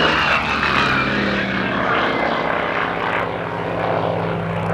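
Propeller-driven warbird's piston engine running on a low straight pass, its pitch dropping over the first couple of seconds as it goes by.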